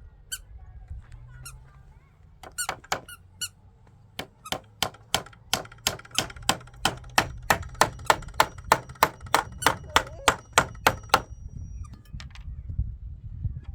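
Hammer blows with a metallic ring. A few scattered strikes come first, then a steady run of about three a second that grows louder and stops about two seconds before the end.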